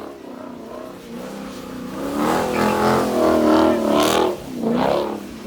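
A car engine revving: low for the first two seconds, then revved up and held high with its pitch wavering, dipping briefly a little after four seconds and climbing again near the end.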